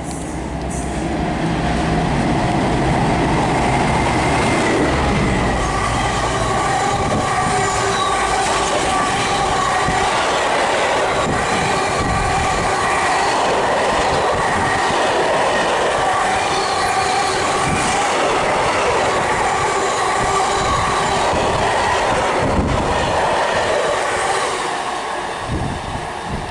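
Class 60 diesel locomotive running through at speed with a train of tank wagons. The engine's deep drone passes in the first few seconds. Then comes a long steady rumble and clatter of wagon wheels with a sustained ringing wheel squeal, fading near the end.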